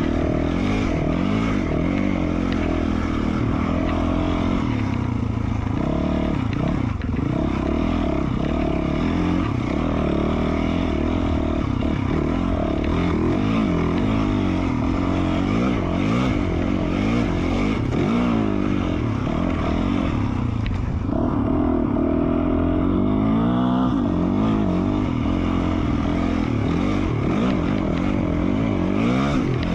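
The single-cylinder four-stroke engine of a 2020 Yamaha YZ450F dirt bike, fitted with an FMF Q4 slip-on exhaust, under way, its revs rising and falling again and again as the throttle is worked.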